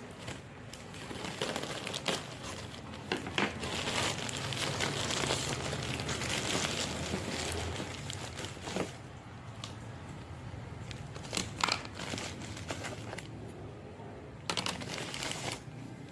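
Plastic packaging crinkling and rustling as it is handled, with scattered sharp clicks.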